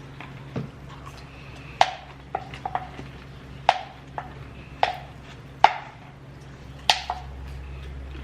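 Irregular sharp knocks, about eight, spaced unevenly, each with a brief ringing tone, over a steady low hum.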